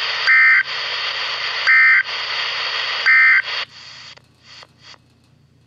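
NOAA Weather Radio SAME end-of-message data tones: three short, loud two-tone digital chirps about a second and a half apart over radio hiss, signalling the end of the warning broadcast. The hiss then cuts off a little before four seconds in, with a couple of brief crackles as the transmission drops.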